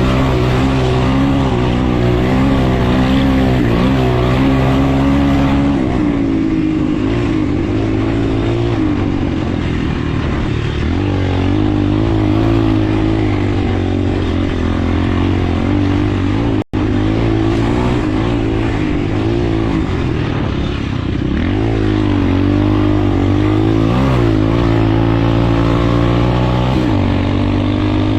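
Motocross dirt bike engines running loud and continuous, their pitch rising and falling as the riders throttle up and ease off. The sound cuts out for a split second about 17 seconds in.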